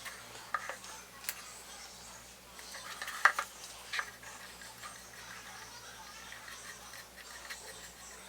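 A few light clicks and taps, the loudest about three seconds in, over a faint steady hum.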